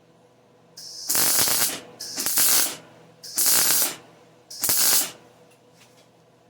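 Welding arc crackling in four short bursts, each about half a second to a second long with brief pauses between: a run of tack welds along a cut in steel tubing.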